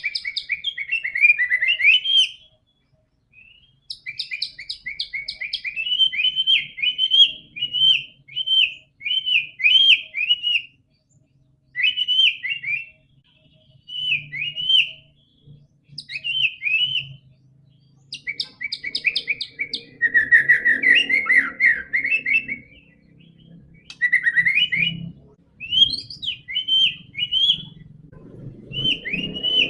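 White-rumped shama (murai batu) in full song: short phrases of rapid, sharp, sweeping notes, repeated again and again with brief pauses between them.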